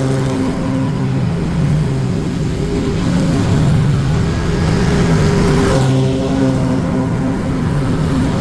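Lawn mower's petrol engine running steadily under load.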